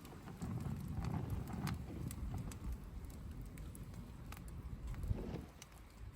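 Wood campfire crackling: scattered sharp snaps and pops over a low rumble.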